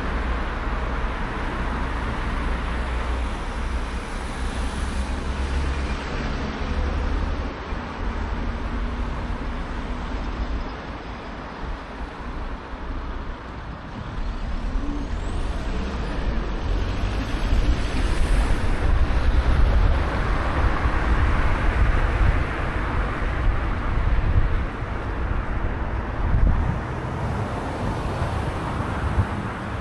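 Wind rushing over the microphone of a moving bicycle, with a heavy, uneven low rumble and road and traffic noise around it. It grows louder about halfway through.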